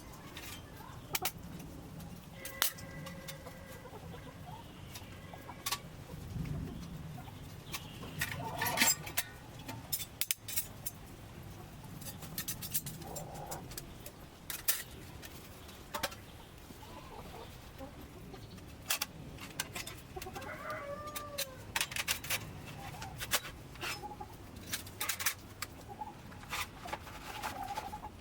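A few short bird calls, like fowl clucking, among scattered sharp clicks and knocks.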